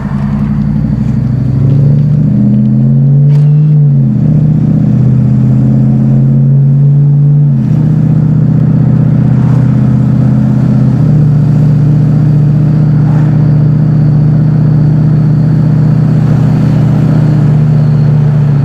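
Jeep Grand Cherokee's 5.2 Magnum V8 through a Magnaflow X-pipe dual exhaust, heard from inside the cab with the windows down, pulling on light throttle. The engine note rises and drops back twice, once about four seconds in and again near eight seconds, then settles to a steady cruising drone.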